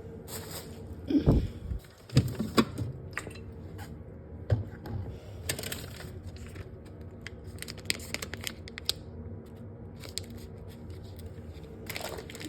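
Irregular rustles, crinkles and light knocks of packaging and containers being handled while a fridge is cleared out, over a steady low hum.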